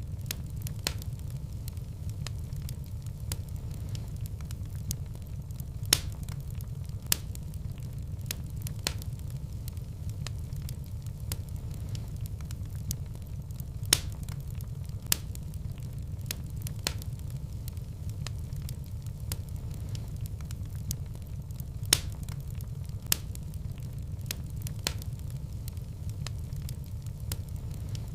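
Fire burning in a fireplace, crackling: a steady low rumble of flames with scattered sharp pops, the loudest about six, fourteen and twenty-two seconds in.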